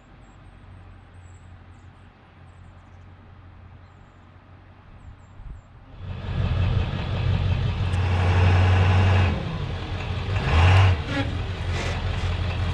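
Truck engine running, faint at first, then abruptly much louder about six seconds in as a steady low drone that swells twice.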